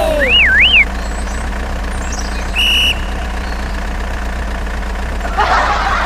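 Engine idling with a steady low drone. A wavering whistle-like tone sounds in the first second, a single short beep comes about two and a half seconds in, and there is a brief noisy rush near the end.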